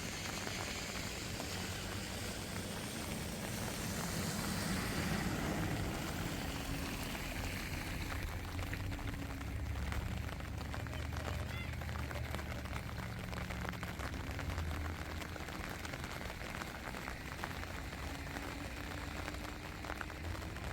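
Steady rain with many small drop ticks. A low rumble grows stronger in the second half.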